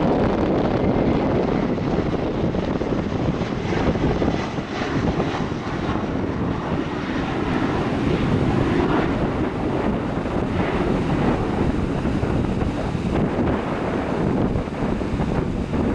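Twin Rolls-Royce BR715 turbofans of a departing Qantas Boeing 717 running at takeoff power: a steady jet noise that grows brighter about halfway through, with wind buffeting the microphone.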